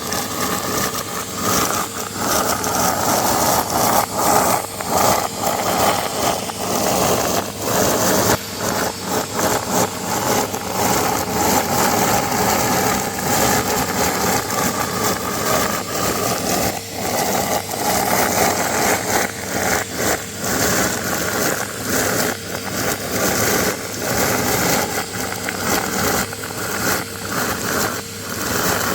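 Vacuum cleaner running steadily with a whining motor, while bits of confetti rattle and click through the nozzle.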